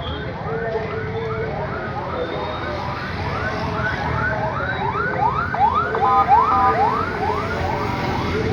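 An electronic alarm siren sounding a fast series of rising whoops, about two a second, louder around the middle. A low rumble runs underneath.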